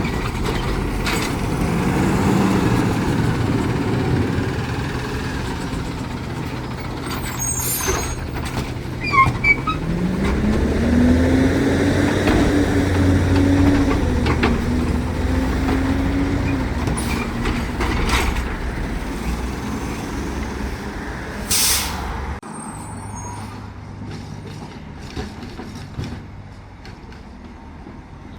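Heil Rapid Rail automated side-loader garbage truck running, with a few metallic clanks about a third of the way in. Its engine revs rise and hold for several seconds. About three quarters through comes a sharp air-brake hiss, after which the engine sound drops away.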